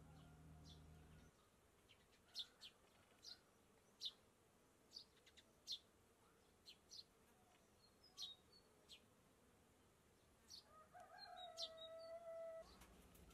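Faint small-bird chirps, short and scattered, about fifteen in all, with a longer call held at a steady pitch for about two seconds near the end.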